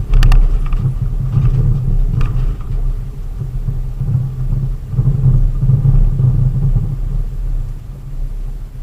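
Delivery vehicle's steady low engine and road rumble, with a few short sharp clicks in the first couple of seconds.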